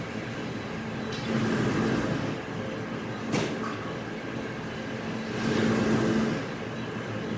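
Machinery running with a steady hum. It swells louder with a hiss twice, and there is one sharp knock in between.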